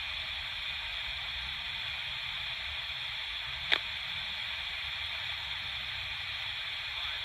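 FM radio hiss and static from a radio tuned between stations with its antenna down, steady throughout, with one brief click a little over halfway through.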